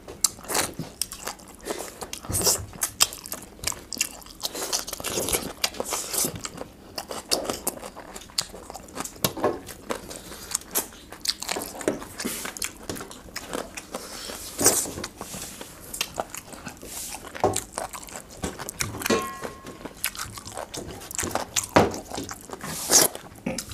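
Close-miked eating sounds of two people eating chicken curry and rice by hand: irregular chewing, biting and crunching, with small clicks and scrapes of fingers on steel plates.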